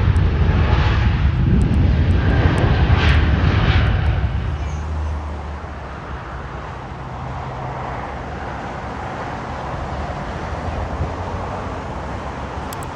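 Jet airliner engines passing close by, a loud low rumble that eases after about four seconds into a quieter steady rumble as the aircraft moves away.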